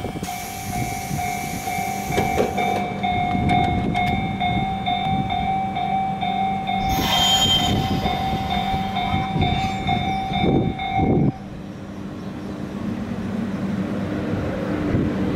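A JR Hokkaido electric commuter train at a platform: a steady pulsing departure signal tone sounds for about eleven seconds over the train's low hum, with a short hiss of air about seven seconds in. After the tone stops, the train pulls away, its motors whining slowly upward in pitch.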